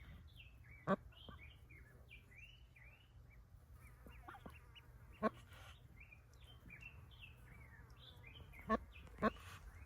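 Newly hatched ducklings peeping over and over, many small high falling cheeps. A few brief, sharper, louder sounds stand out, about a second in, near the middle and twice near the end.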